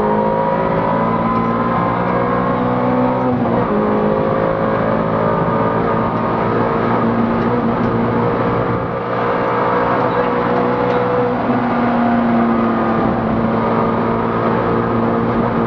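Rally car engine heard from inside the cabin, running hard under acceleration, its pitch shifting at gear changes about three and a half seconds in and again around nine seconds.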